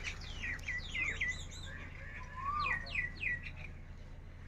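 Several birds singing and calling: quick runs of short, high chirps that each sweep downward, with one lower slurred whistle about two and a half seconds in.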